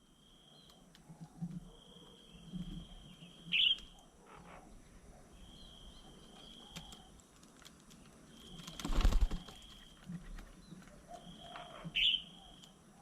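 Birds at a feeding table: two loud, short, sharply falling chirps, a steady high note repeating every couple of seconds, and a loud rustling burst about nine seconds in.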